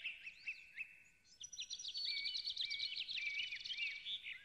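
Birdsong from several small birds, with quick chirps and short trills overlapping at different pitches. It grows busier about a second and a half in.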